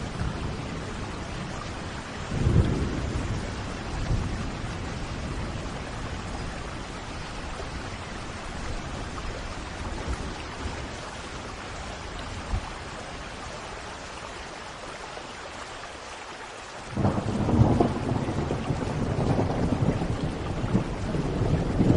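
Thunderstorm: steady rain falling, with a brief low rumble of thunder about two and a half seconds in and a louder, longer roll of thunder building near the end.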